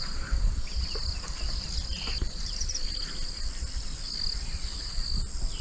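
Insects shrilling in a daytime chorus: a high trill that pulses on and off every half second to a second over a steady higher whine, with a low rumble underneath.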